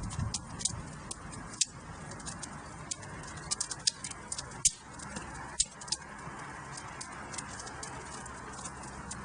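Wood fire crackling in a fireplace: irregular sharp pops and snaps over a steady soft hiss, with a few louder pops about one and a half, four and a half and five and a half seconds in.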